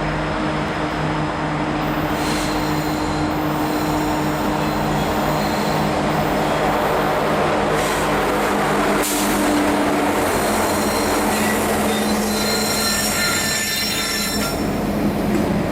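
Freight train rolling past with a steady rumble of wheels on rail, and a high-pitched wheel squeal that is strongest in the last few seconds.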